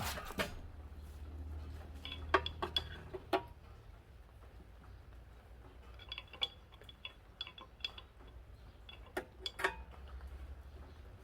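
Metal tools and parts clinking and tapping during hands-on engine assembly: scattered sharp clinks, some with a short metallic ring, in clusters about two seconds in, again between six and eight seconds, and near the end.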